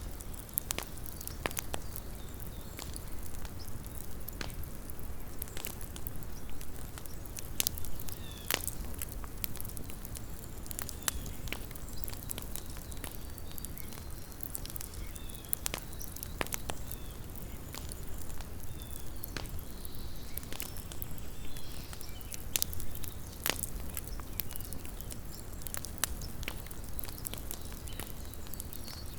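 Small campfire crackling: irregular sharp pops and snaps from burning wood, several a second at varying strength, over a steady low rumble.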